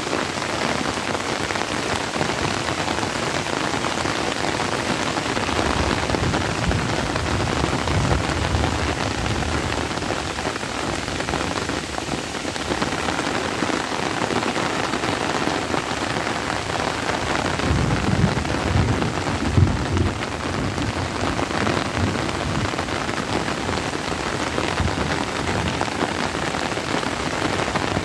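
Steady rain falling on trees, leaves and grass, with low rumbles swelling about six seconds in and again around eighteen to twenty seconds.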